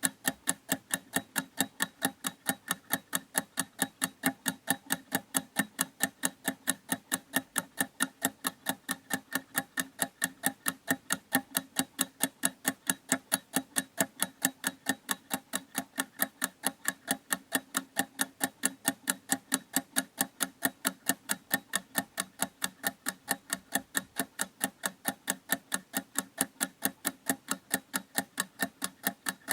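Clock ticking steadily: quick, evenly spaced ticks with no pause.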